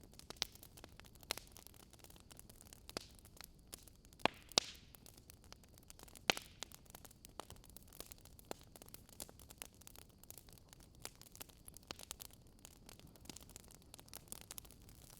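Wood fire crackling: irregular sharp pops and snaps over a faint steady hiss, with a few louder pops about four and six seconds in.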